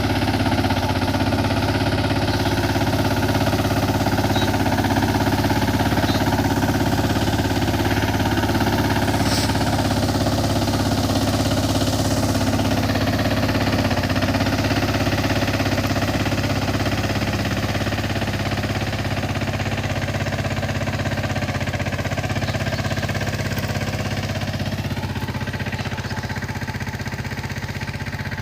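15 HP mini tractor's engine running steadily as it pulls a tined 'mor pagla' cultivator through the field. It grows a little quieter in the last third.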